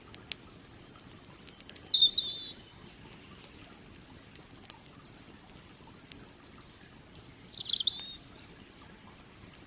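Campfire crackling with scattered sharp pops of burning wood, over the steady low rush of a flowing creek. A bird chirps twice, about two seconds in and again near the end, louder than the fire.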